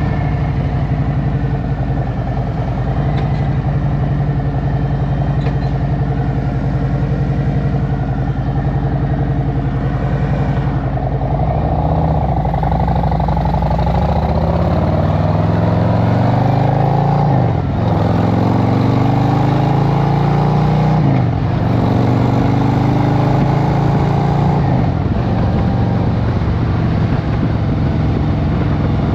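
2023 Harley-Davidson Road Glide Special's Milwaukee-Eight V-twin engine running steadily, then accelerating from about halfway through, its pitch rising with two quick drops a few seconds apart as it shifts up, before settling into a steady cruise.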